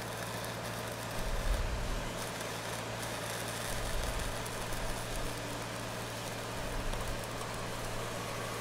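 Stick welding with a 6010 electrode run downhill: a faint, steady crackling hiss from the arc over a steady low engine hum.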